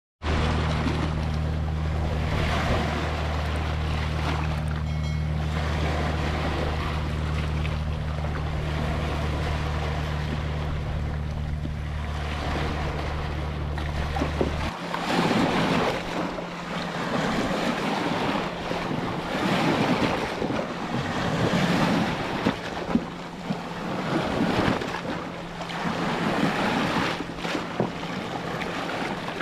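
Ocean surf washing and breaking in repeated surges. Under the first half runs a steady low hum, which cuts off abruptly about halfway through.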